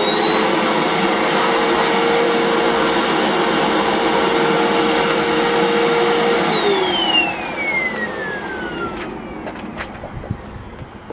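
Hoover WindTunnel High Performance Pet upright vacuum cleaner running with its HEPA and dust filters taken out, giving a steady motor whine. It is switched off about six seconds in, and its pitch falls as the motor spins down. A few clicks come near the end. Even without the filters it gives little suction, which the owner first blames on a plugged hose.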